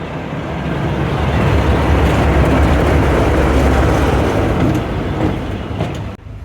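Train hauled by locomotive 5552 passing close by, a heavy rumble that builds to its loudest about two to four seconds in, then cuts off abruptly near the end.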